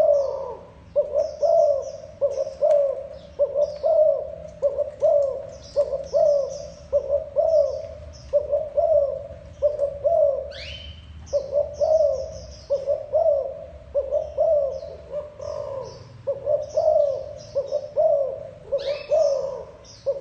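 Spotted dove cooing over and over, phrases coming about once a second with brief pauses between runs, the field-type coo used to call and train wild-caught doves. Small birds chirp high above it, with two rising whistles, one midway and one near the end.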